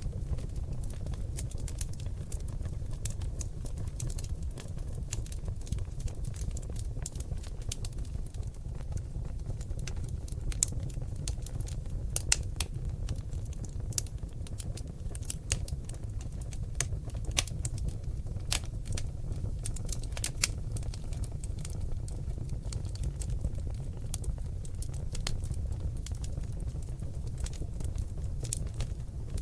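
Seasoned oak logs burning in a fireplace, crackling with irregular sharp pops over a steady low rumble of the flames. A few louder pops come around the middle.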